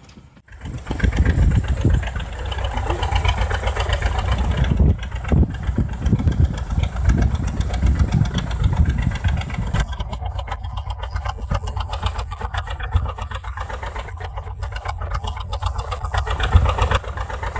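A motor vehicle engine running steadily, starting suddenly after a cut and shifting in sound about ten seconds in.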